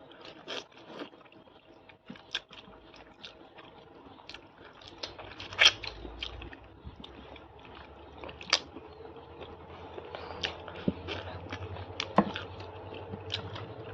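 A person chewing and biting food close to the microphone: irregular crunches, smacks and sharp clicks, a few of them louder than the rest.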